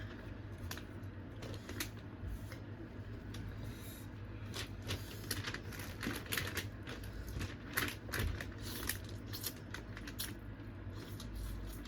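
Irregular clicks and crackles of boiled seafood shells being cracked and peeled by hand, over a faint steady low hum.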